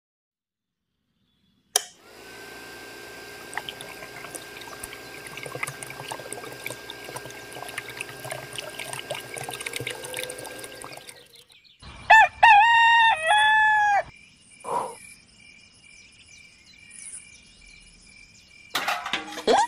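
A small motor runs with a steady hum for several seconds and then stops. About two seconds later a rooster crows once, a call of about two seconds and the loudest sound here. A short noisy burst comes near the end.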